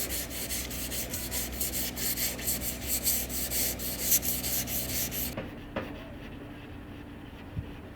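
A power tool with an abrasive, such as a sander, rasps against a surface in quick strokes over a steady motor hum. It cuts off suddenly about five seconds in.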